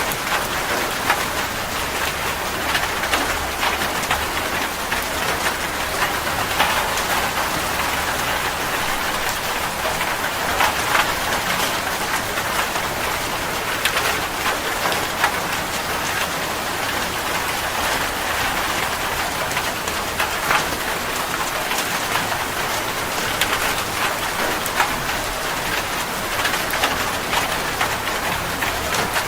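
Steady rain falling, a dense even hiss with many close individual drops ticking on a surface.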